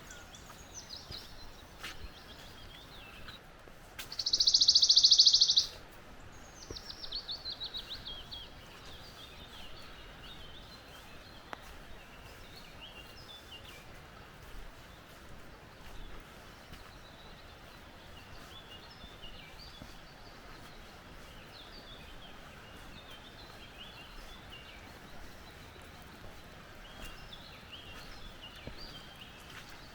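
Forest birds calling over a steady rush of flowing water. About four seconds in, one loud harsh buzzing call lasts about a second and a half. Right after it comes a quick falling run of notes, then scattered chattering calls.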